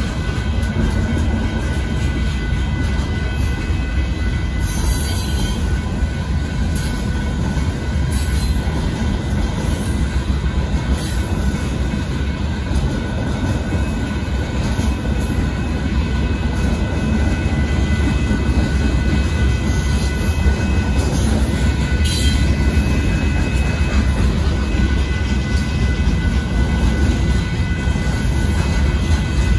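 CSX freight train of boxcars rolling past with a steady low rumble of wheels on rails.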